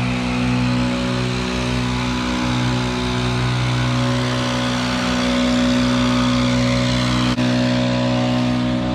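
Stihl BR 800 backpack leaf blower, its two-stroke engine running steadily at speed with a rushing blast of air. A brief click about seven seconds in.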